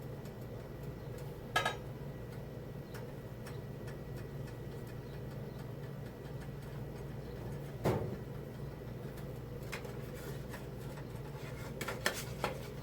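A steady low hum with a few light clicks and knocks of kitchen handling: one about a second and a half in, a louder one near the middle, and several quick ones near the end.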